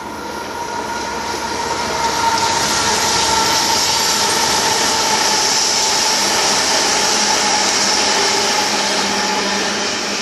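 BNSF stack train's diesel locomotives approaching on the main line, the rumble of engines and wheels on rail growing louder over the first two seconds and then holding steady, with a thin steady high tone running through it.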